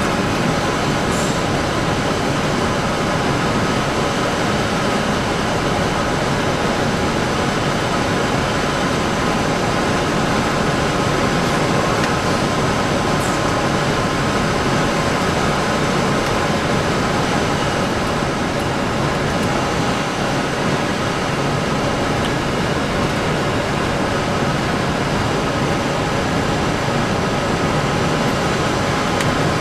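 Steady flight-deck noise of a Boeing 747 on final approach: a constant rush of airflow with a layer of steady hums and whines from the engines and cockpit systems.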